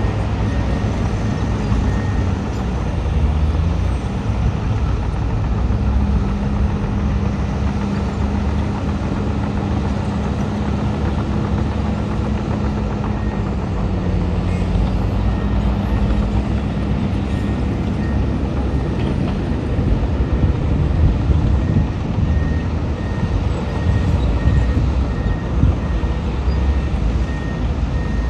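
Heavy diesel earthmoving machinery, bulldozer and dump trucks, running steadily under load. A reversing alarm beeps in regular pulses at intervals, most steadily through the last few seconds.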